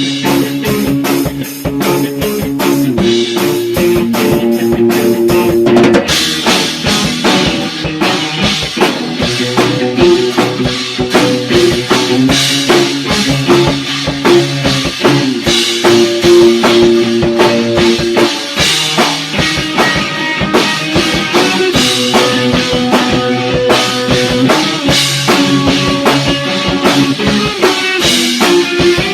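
Rock band playing at rehearsal: a drum kit keeping a steady beat under electric guitar and bass. About six seconds in the cymbals open up and the sound gets fuller and brighter.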